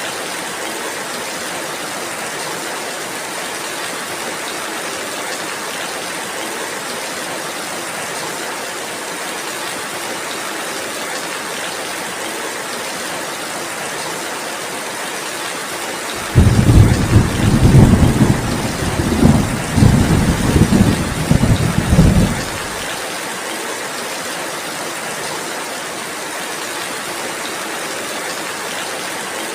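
Steady rain falling, with a loud rumble of thunder that starts suddenly a little past halfway and rolls in several swells for about six seconds before fading back into the rain.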